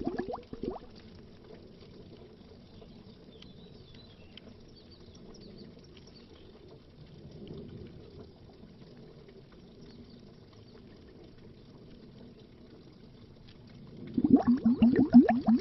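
Underwater bubbling. A burst of bubbles dies away within the first second, a long faint low watery hush follows, and loud rapid bubbling starts again about 14 seconds in.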